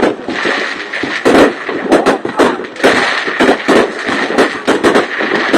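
New Year's Eve fireworks going off: a dense, irregular string of sharp bangs, several a second.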